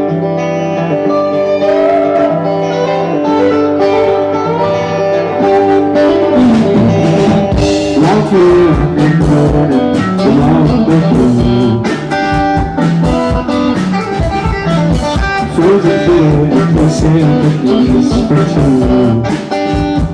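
Live band playing the instrumental opening of a song on guitar, with sustained notes at first and drums joining in about six seconds in.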